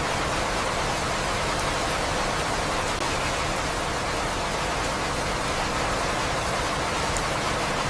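Steady rain falling, an even rushing hiss with a few faint drop ticks, unchanging in level; no thunder.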